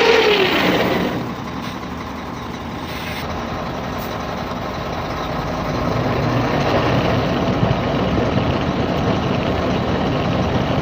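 Truck running with a steady low hum from the wheel end, a hum put down to the planetary hub reduction. It grows louder about halfway through.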